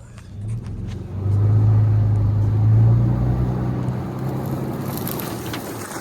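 A car engine running and pulling away, with a steady low drone that gets louder about a second in as it accelerates.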